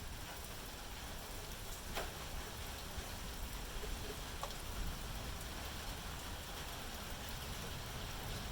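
Steady rain falling: an even hiss with a low rumble underneath and a few separate louder drops, one about two seconds in and another a little past four seconds.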